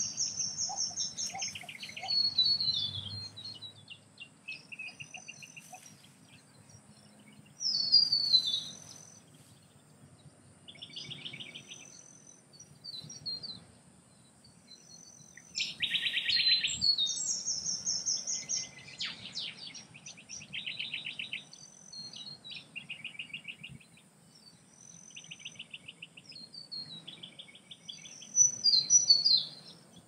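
Small birds calling: repeated high-pitched chirps and rapid trills, some sliding down in pitch. They come in bursts, loudest about a quarter of the way in, halfway through and near the end, over a faint low background hum.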